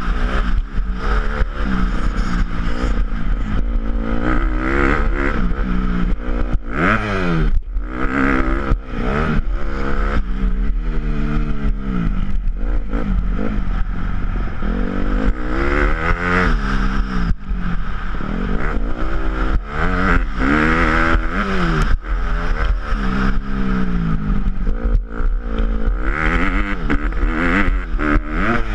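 Motocross dirt bike engines revving hard, pitch climbing and dropping over and over as the bikes accelerate, shift and back off, with several bikes at once at times.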